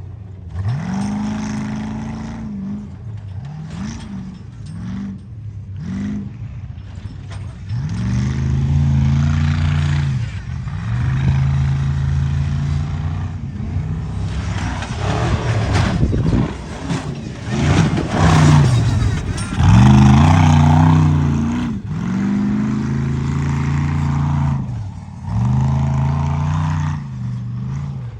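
Tuff truck engine revving hard again and again, its pitch climbing and falling with each burst of throttle, with a rougher, noisier stretch in the middle.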